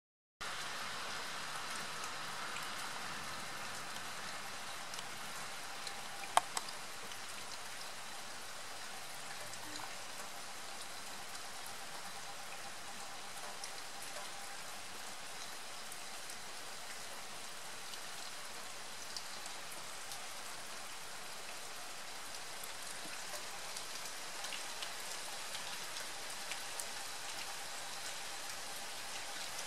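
Steady rain falling on pavement, an even hiss dotted with the ticks of single drops. A single sharp tap stands out about six seconds in.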